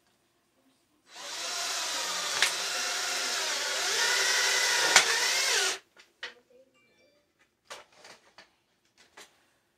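Power drill running for about four and a half seconds, driving a screw into sheet metal, its pitch stepping up partway through, with two sharp clicks. Light taps and knocks of handled metal follow.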